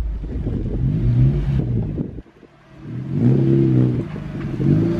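Car engine revving, its pitch rising and falling a few times over a low rumble, with a brief drop-out a little over two seconds in.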